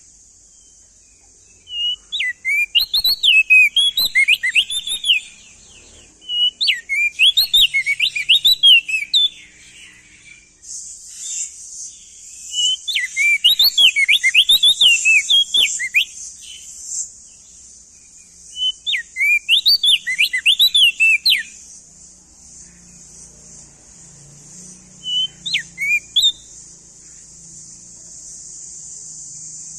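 Male opior jambul (prenjak daun) singing: five loud bursts of rapid, high, up-and-down whistled notes with gaps of a second or more between them, the last burst short. A steady high hiss runs underneath and grows louder about a third of the way in.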